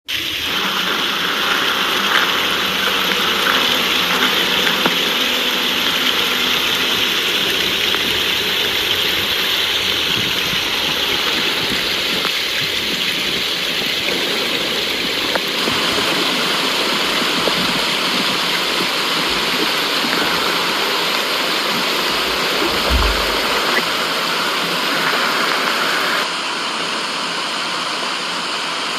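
Running water rushing steadily, used as white noise. A brief low thump about three-quarters of the way through.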